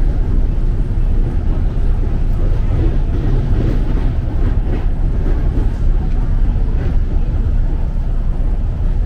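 Steady running noise heard inside a 205 series electric commuter train carriage: a loud, even low rumble of wheels and motors on the track.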